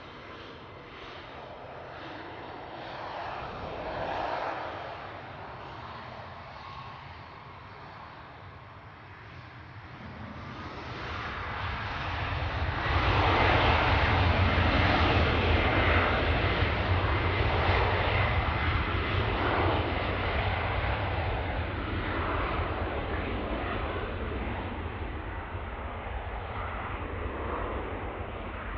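Embraer E195 airliner's twin turbofan engines at takeoff power: a jet roar that swells about a third of the way in, peaks loud with a steady high whine, then slowly fades as the aircraft passes and climbs away.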